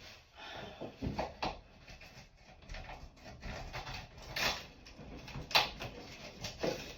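A shower door frame piece being worked loose from the silicone that holds it: a series of short scrapes and knocks, the sharpest about five and a half seconds in.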